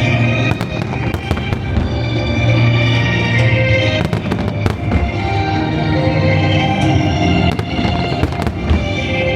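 Aerial fireworks bursting in irregular sharp bangs and crackles, bunched about four seconds in and again near the end, over loud sustained music.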